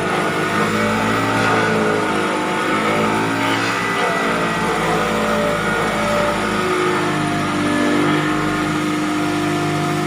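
Heavy diesel engine of a pile-driving rig running steadily, with no hammer blows heard.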